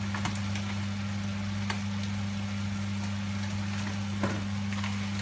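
Pork pieces cooking in vinegar and soy sauce in a nonstick wok, sizzling with a few sharp pops, over a steady low hum.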